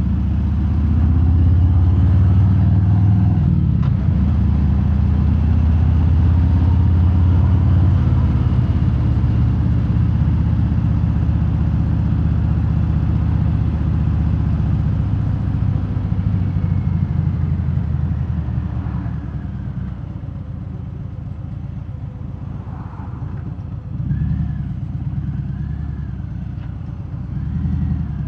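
Harley-Davidson Fat Bob V-twin with Vance & Hines Hi-Output slip-on mufflers and no quiet inserts, heard from inside the rider's helmet. It pulls steadily under throttle, eases off about two-thirds of the way through, then picks up twice in short surges near the end.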